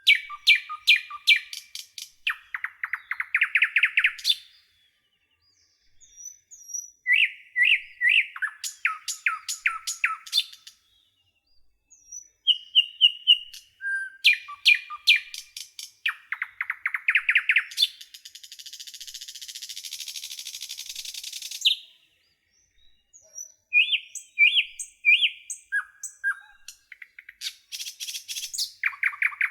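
A songbird singing repeated phrases of quick, high chirps and trills separated by short pauses, with a harsher buzzy, hissing passage about two-thirds of the way through.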